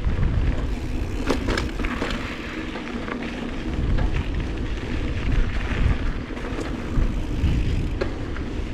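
Wind buffeting the microphone of a camera on a moving mountain bike, a loud rumble, with tyre noise and a few sharp knocks and rattles from the bike going over the trail.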